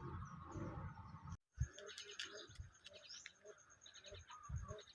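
Faint outdoor birdsong: small birds chirping high and quick, with a dove cooing in a run of repeated low notes and a few low bumps. The sound cuts out completely for a moment about a second and a half in.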